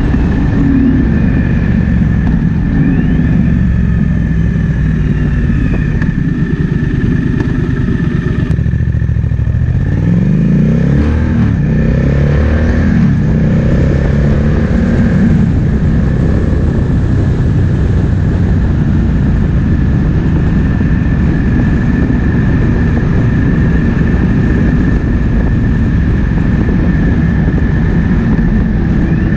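Triumph Speed Twin 1200's parallel-twin engine running on the move, with wind noise over the microphone. About nine seconds in the engine note drops briefly, then rises and falls several times as the bike revs through gears, before settling back to a steady cruise.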